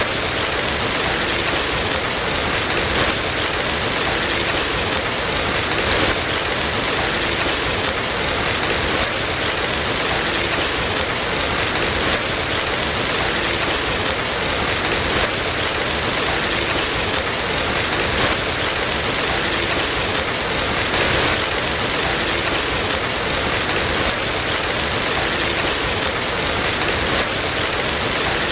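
Steady, dense rainfall hissing evenly.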